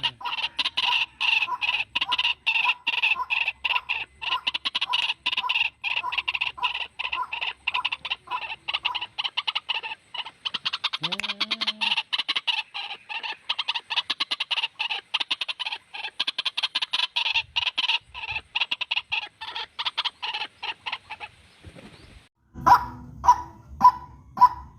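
Recorded white-breasted waterhen (ruak-ruak) calls played as a lure: a fast, unbroken chatter of repeated calls, several a second. After a short break near the end, slower, louder single calls come about two a second.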